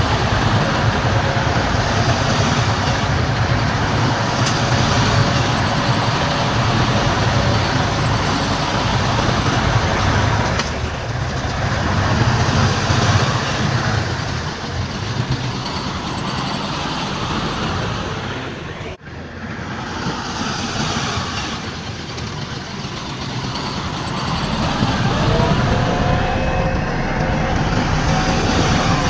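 Heavy diesel construction machinery running with a steady low engine drone, broken by a brief gap about two-thirds of the way through. Near the end, a higher whining tone joins the engine sound.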